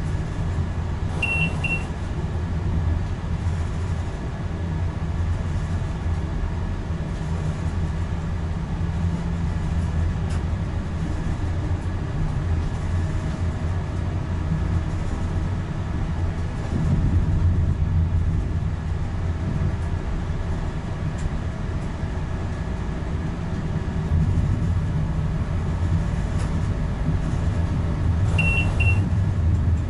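Renfe Class 120 Alvia train running along the line, heard from the driver's cab: a steady low rumble of wheels on rail and running gear. A short double beep from a cab alert sounds about a second in and again near the end.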